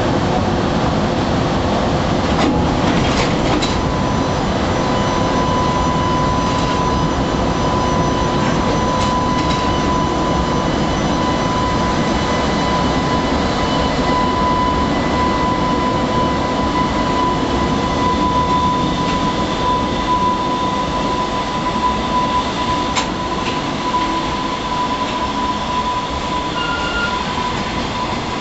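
Container freight train hauled by a JR Freight EH500 electric locomotive rolling out of a station: a steady rumble of wagon wheels on the rails, a few sharp clicks, and a thin steady high tone.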